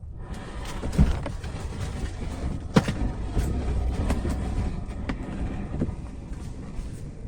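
Plastic fishing kayak being shifted about on its wheeled kayak cart: a continuous scraping, rolling rumble with several hard knocks, the sharpest about three seconds in.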